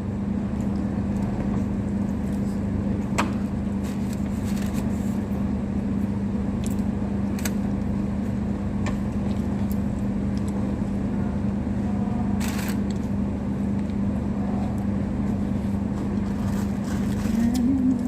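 Steady hum of a car running, heard from inside the cabin, with a few small clicks and scrapes over it.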